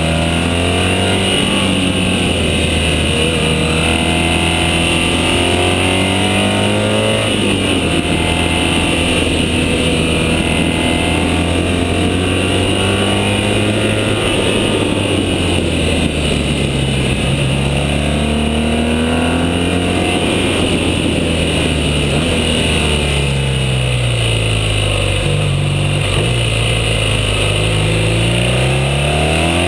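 BMW R1200GS motorcycle's flat-twin boxer engine pulling up a twisting mountain road, its revs rising and falling again and again as the rider accelerates out of bends and backs off into them.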